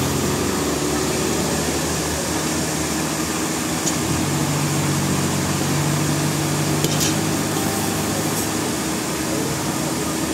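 Sawmill machinery running steadily, a loud even hum whose pitch shifts slightly about four seconds in, with a couple of faint clicks near seven seconds.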